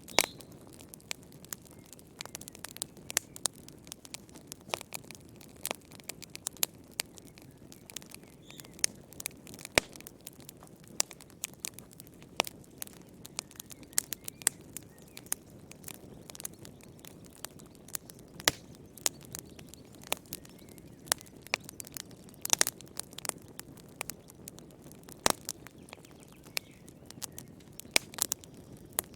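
Wood fire burning in a fireplace: irregular crackles and sharp pops of burning firewood, many per second with a few louder snaps, over a steady low rush of the flames.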